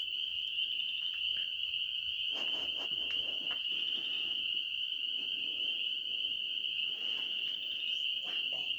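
Night insect chorus: a continuous high-pitched trill, with fainter irregular sounds beneath it.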